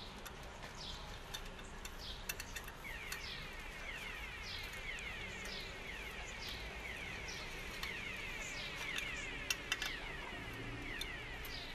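Birds calling: a short falling note repeats about once a second, and from about three seconds in a rapid run of falling notes joins it. A few sharp clicks sound, a pair of them near the end.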